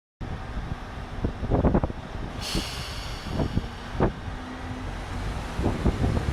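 JR Central KiHa 25 diesel railcar's engine running at a steady low hum, with several clunks and knocks and, about two and a half seconds in, a hiss of air that fades away.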